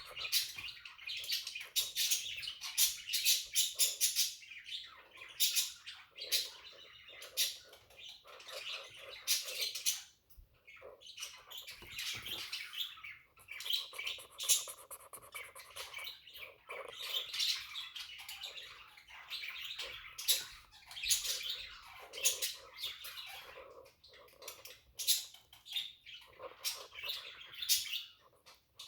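Several pet budgerigars chattering, a stream of quick chirps and squawks with a short lull partway through.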